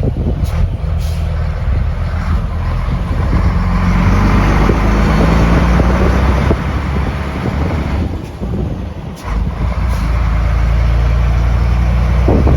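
Scania 93 truck's diesel engine running under load, its pitch rising for a few seconds, then a brief drop about nine seconds in, as at a gear change, before it pulls on steadily. A few short sharp clicks or hisses sit over it.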